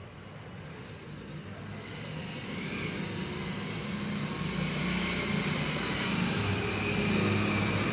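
Engine and road noise of a passing vehicle, growing steadily louder over several seconds.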